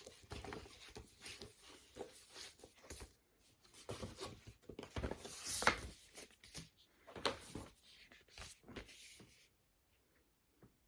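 Soft rustling, scraping and light taps of vinyl LP sleeves and records being handled, a string of short irregular sounds that stops about a second before the end.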